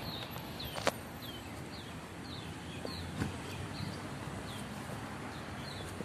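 Small birds in the trees giving short, high chirps that fall in pitch, repeated every half second to a second, over a steady outdoor hiss. There is one sharp click about a second in.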